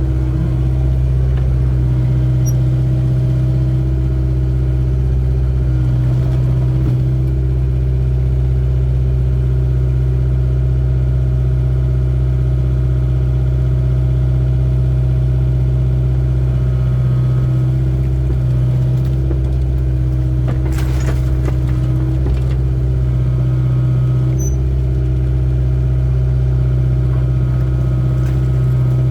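Excavator's diesel engine running steadily, with a brief knock about twenty seconds in.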